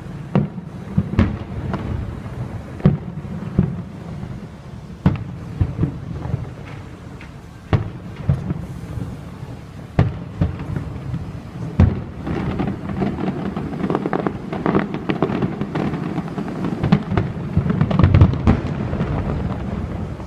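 Aerial firework shells bursting in an irregular run of sharp booms with deep rolling rumble. From about twelve seconds in the bursts come faster and crackle more densely, building to the loudest booms near the end.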